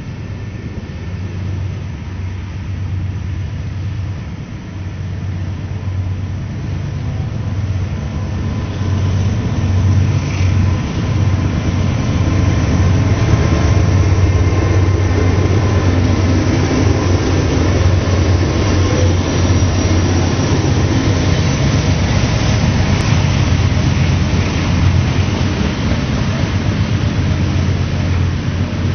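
Norfolk Southern GE Dash 9-40CW and Dash 8-40CW diesel locomotives hauling a grain train pass close by. Their running engines grow louder over about the first ten seconds as they approach, then give way to the steady rumble of covered hopper cars rolling past on the rails.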